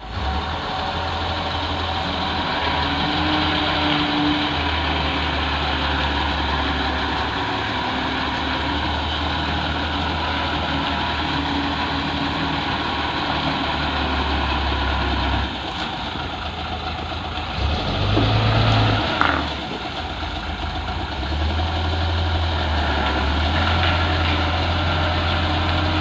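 Heavy diesel engine idling steadily. The revs rise briefly about 18 seconds in and then settle back.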